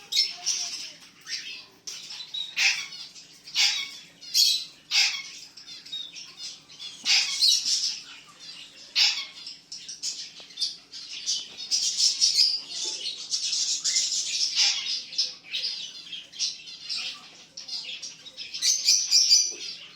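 Many small aviary birds chirping and squawking, with short high calls overlapping in continuous chatter that rises and falls in busier spells.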